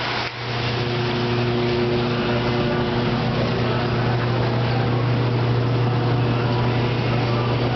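Water-jug washing machine running, its electric pumps giving a steady hum over a constant hiss of spraying water.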